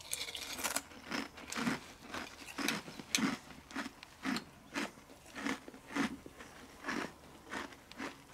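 A person chewing a big mouthful of crunchy Honey Buns cereal in milk close to the microphone, a steady run of crunches at about two chews a second.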